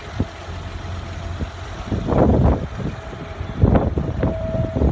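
1990 BMW 325i's 2.5-litre straight-six idling steadily, with wind buffeting the microphone in two gusts, about two seconds in and near the end.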